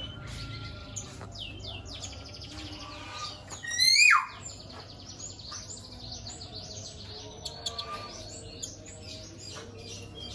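Several caged songbirds chirping and singing at once, many overlapping calls and trills, with a loud rising whistled call about four seconds in.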